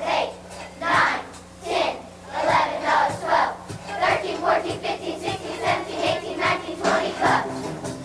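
A group of children's voices calling out together in quick bursts, with instrumental music coming in near the end.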